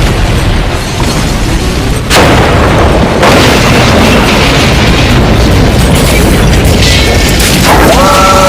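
Self-destruct explosion sound effect: a long, loud booming rumble, with fresh blasts about two and three seconds in.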